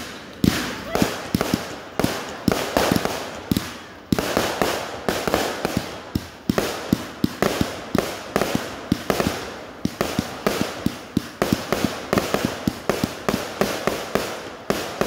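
Consumer aerial fireworks firing in rapid succession: a dense, unbroken string of launch thumps and overhead bangs and crackles, several a second.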